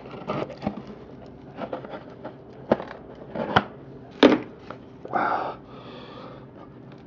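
A small cardboard trading-card box being worked open by hand: scattered clicks, taps and scrapes of fingers and cardboard, with a few sharper knocks in the middle and a short rustle just after the fifth second.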